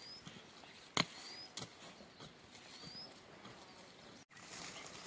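Faint outdoor ambience with three short, high, rising chirps from a small bird, and a sharp click about a second in followed by a lighter one. The sound cuts out for an instant near the end.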